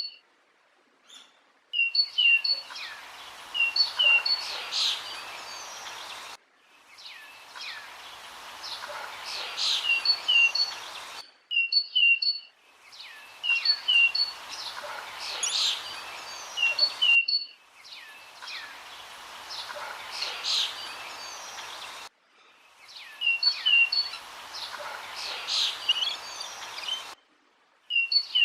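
Birds chirping over a steady background hiss, in a short nature-sound recording that loops about every five seconds, with a brief silent gap between repeats.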